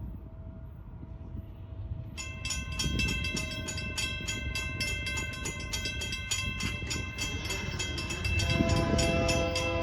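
Union Pacific freight locomotive horn sounding as the train approaches over a low rumble, starting suddenly about two seconds in and held, with lower tones joining and growing louder near the end. A fast, even clanging runs alongside the horn.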